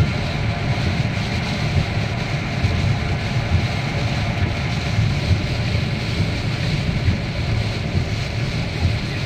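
Steady low rumble and rushing noise of a car driving in heavy rain.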